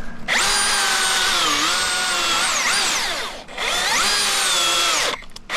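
Milwaukee battery-powered chainsaw running at full throttle in two bursts with a short break between, its electric whine dropping in pitch as the chain loads up in the wood. The chain is as it came out of the box and, by the sawyer's account, still needs tuning.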